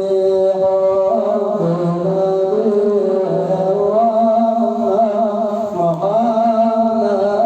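Male munshid singing an Arabic devotional nasheed in a slow, ornamented melody with wavering held notes, over a steady sustained drone beneath.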